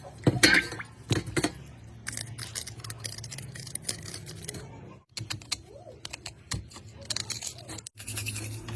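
Scraping, scratching and sharp clicks of tools and metal parts being handled during a water pump repair, over a steady low hum, cut off abruptly twice.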